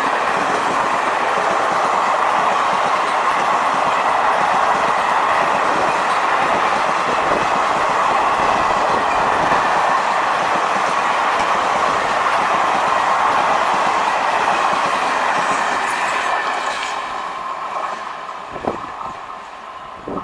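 Seshadri Express passenger coaches rolling past at speed, a loud steady rush of wheels on rail that fades away over the last few seconds as the train moves off, with a couple of short knocks near the end.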